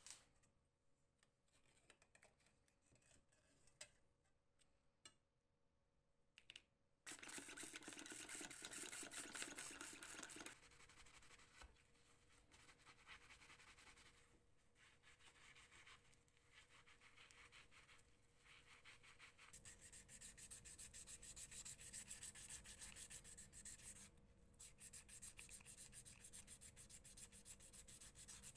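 Hand sanding: an abrasive rubbed quickly back and forth over a surface. It starts about seven seconds in after a few light clicks, is loudest until about ten seconds in, eases off, and grows louder again from about twenty seconds in.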